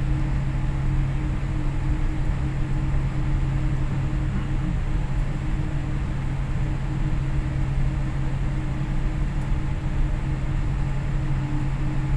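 Steady airliner cabin noise inside a Boeing 787: a constant low hum over an even rushing hiss.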